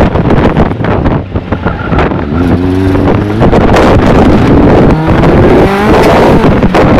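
A 1000 cc motorcycle engine in a two-seat buggy running hard under heavy wind noise on the microphone. It eases off about a second in, then its pitch shifts and it comes back up to full loudness a few seconds in.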